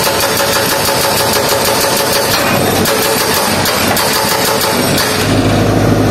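Diesel engine of heavy road-work equipment running, rough and noisy with scattered knocks; about five seconds in it turns to a deeper, steadier hum.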